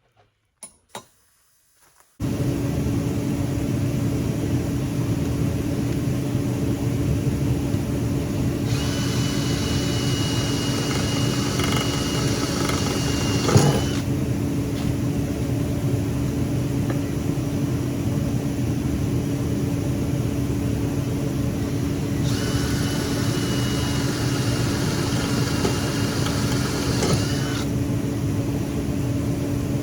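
A drill's motor starts about two seconds in and runs steadily. Twice, for about five seconds each, the bit cuts into metal with a hiss and a thin squeal, drilling two holes.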